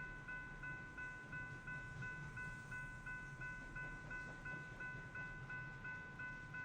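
Railroad grade-crossing warning bell ringing in a steady, even rhythm of about three strikes a second, over the low rumble of a passing coal train.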